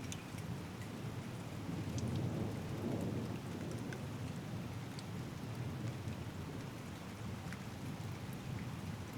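Steady rain falling during a thunderstorm, with scattered individual drop ticks, while a low roll of thunder rumbles and swells about two to three seconds in, then eases off.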